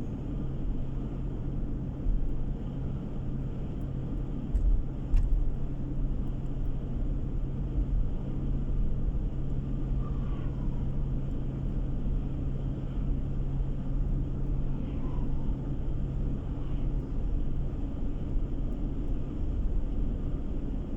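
Steady road and engine noise of a car driving, heard from inside the cabin, with a constant low hum. There are a couple of short knocks about five seconds in.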